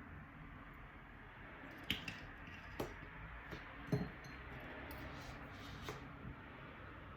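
Scattered small clicks and taps from handling small objects, about six of them over a few seconds, over a steady low hiss.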